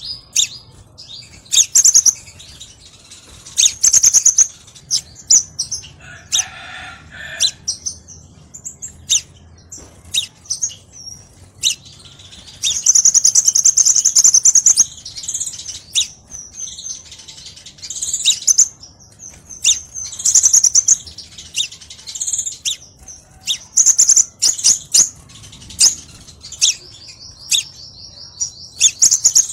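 Small songbird singing: the Indonesian 'kolibri', a sunbird, gives a busy run of high, thin chirps and fast trills, with a long trilled phrase about halfway through and another near the end, among many sharp clicks.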